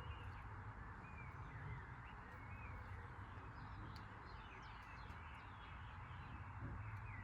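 Birds chirping and calling, many short rising and falling notes, over a steady low hum and hiss.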